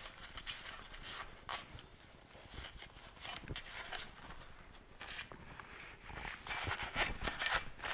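Irregular light taps, knocks and rustling from hand work on engine parts, busier near the end.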